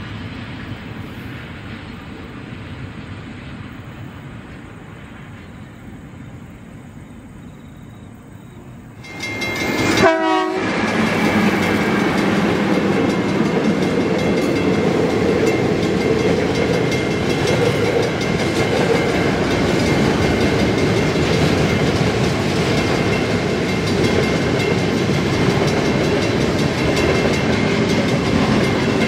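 A KiwiRail freight train led by EF-class electric locomotive 30163 and a second locomotive, hauling container wagons past close by. A quieter low rumble gives way abruptly, about ten seconds in, to the loud, steady rumble and clatter of the locomotives and wagons rolling over the crossing, with steady tones running through it.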